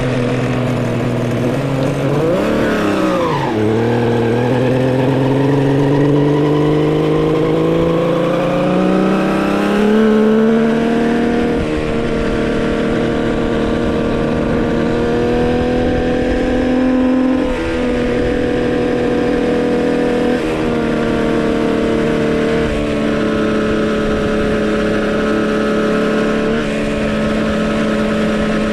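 Homemade three-cylinder two-stroke engine on a bike running under load while riding, during its break-in. Its pitch dips briefly a couple of seconds in, climbs steadily over several seconds as it speeds up, then holds a fairly even cruising note with a couple of short dips.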